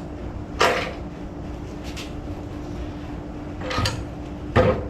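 Four knocks and clatters of objects being handled and set down, the loudest near the end, over a steady low hum.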